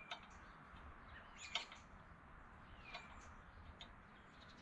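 Near silence with a few faint bird chirps and several light clicks, the loudest about one and a half seconds in.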